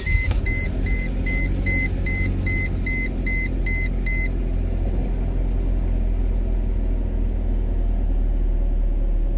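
1999 Mercedes C230's 2.3-litre four-cylinder engine starting and settling into a steady idle. A dashboard warning beeper sounds about two and a half times a second over it, stopping about four seconds in.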